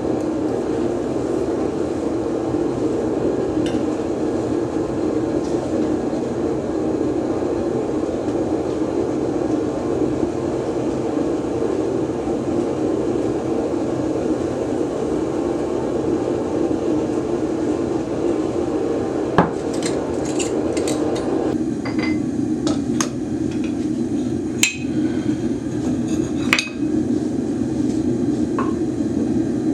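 A steady rushing noise, as from a gas burner firing a melting furnace, with sharp metallic clinks and taps of tools on metal starting about two-thirds of the way through.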